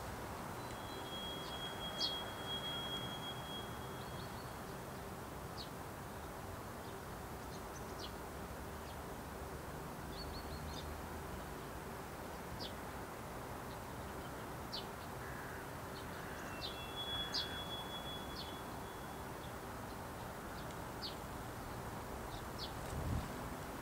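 Scattered short bird chirps and two longer thin high whistled notes over steady outdoor background noise with a faint constant hum. A single low thud comes near the end.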